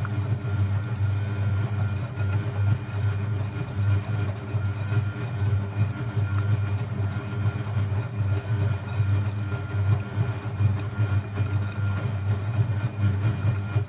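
Eudora Supernova EU 1001 washing machine running in its rinse cycle: a steady low hum with churning noise for about fourteen seconds that cuts off abruptly at the end.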